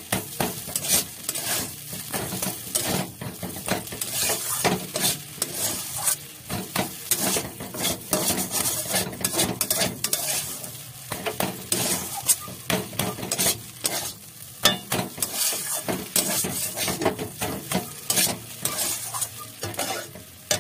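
Finely chopped, spiced cauliflower filling sizzling in a hot pan as a spatula stirs and scrapes it, with frequent scraping and knocking strokes against the pan. The filling is in its last minutes of cooking, nearly done.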